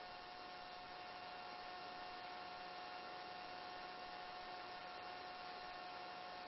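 Faint steady electrical hum and hiss on a helicopter's intercom and radio audio line, with a thin steady tone.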